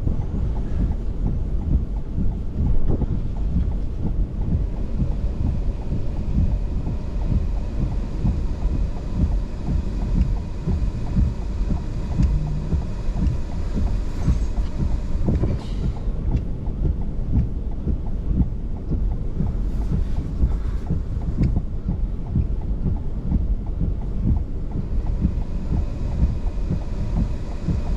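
Strong, gusty wind buffeting the microphone close to a tornado, a steady low rumble that rises and falls.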